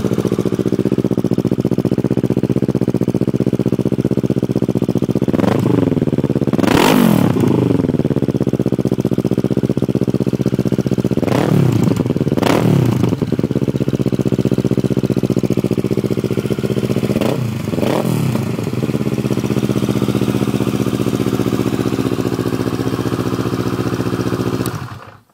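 2009 Kawasaki Ninja 650R's parallel-twin engine through a Yoshimura exhaust, idling and revved in three pairs of quick throttle blips. The engine note cuts off suddenly near the end.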